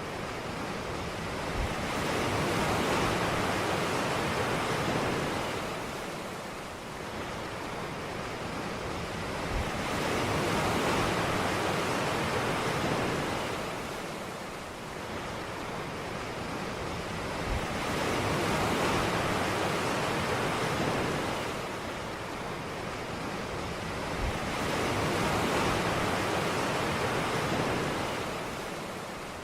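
Ocean waves breaking on a beach, the surf swelling and fading in a slow rhythm, about four waves, one every seven or eight seconds.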